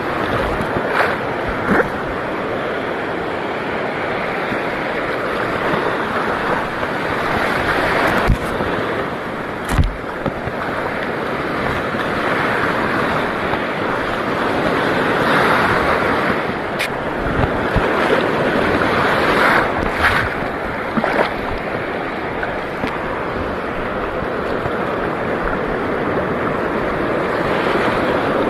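Steady rush of sea water with wind buffeting the microphone, broken by a few sharp knocks.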